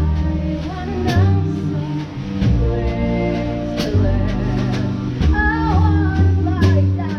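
Live musical-theatre pit band playing an instrumental passage, heard from beside the drum kit: drum hits over a heavy bass line, with a wavering melody line coming in about five seconds in.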